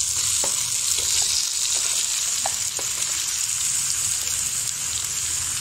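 Raw chicken pieces sizzling in hot oil and ginger-garlic paste in a karahi as they are tipped in: a steady high hiss with a few small pops.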